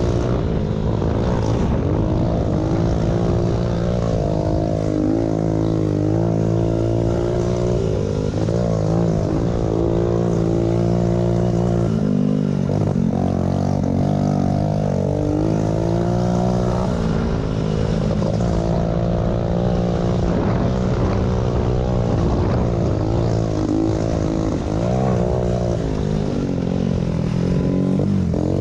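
Small pit bike engines running, their pitch rising and falling continuously as the throttle is worked through the race.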